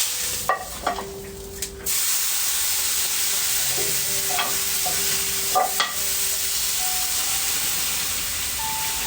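Water running steadily into a frying pan being washed. It is a constant rushing hiss that starts suddenly about two seconds in, with a few light clicks of the pan.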